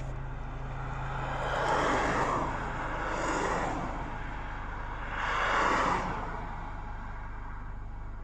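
Vehicles passing by on the road, each swelling up and fading away: the loudest about two seconds and five and a half seconds in, with a smaller one between. A steady low hum runs underneath.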